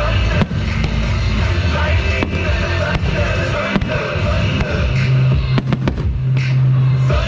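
Aerial fireworks going off in a string of sharp bangs that come closer together past halfway, over music with held bass notes.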